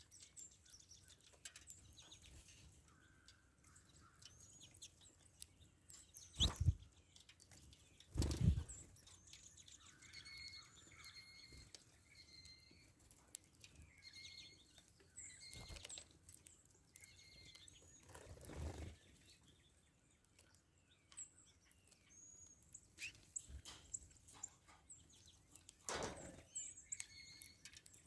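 Songbirds chirping and calling, with a run of whistled, sliding notes in the middle. Several brief loud whooshes break in, the loudest about eight seconds in.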